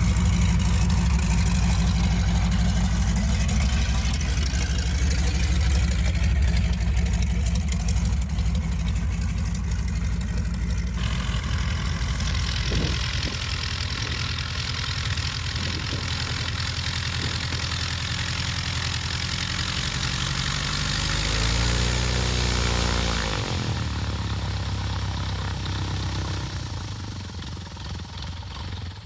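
An engine running steadily, with a brief dip and rise in pitch about three-quarters of the way through, then fading away near the end.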